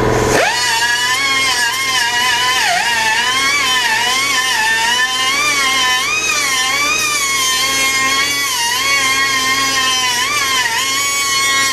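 A power grinder spins up to speed with a sharply rising whine, then runs steadily while cutting into metal, its pitch dipping again and again as the wheel is pressed into the cut.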